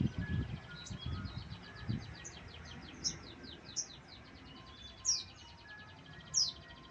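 Tledekan laut bird calling: a fast run of high ticking chirps, with a louder high note sweeping downward four times, about three seconds in, four seconds in, five seconds in and near the end. Low thumps sound during the first two seconds.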